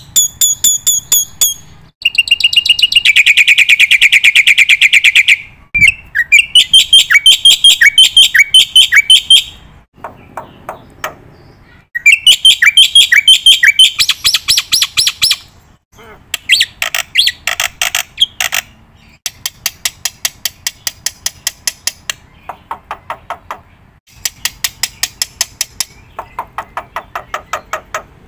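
Birdsong: loud bursts of rapid, evenly repeated high chirps and trills, each burst lasting a few seconds with short pauses between.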